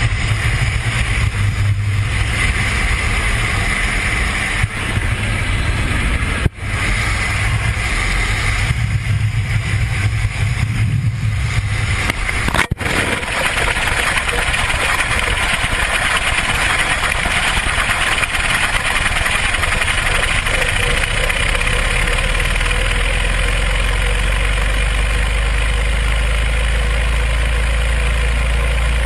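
Loud, steady roar of rushing air and engine noise, typical of a camera riding on or falling from a light aircraft. It breaks off briefly twice, about six and twelve seconds in, and settles into a steadier low drone for the last several seconds.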